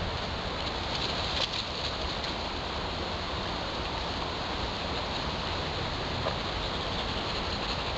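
Steady outdoor rushing noise with a few faint crackles.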